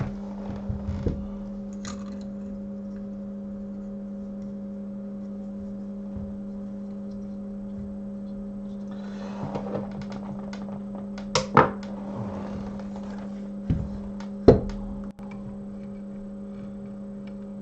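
Steady electrical hum from microsoldering bench equipment, with a few sharp clicks and knocks of tools and parts being handled about two-thirds of the way in.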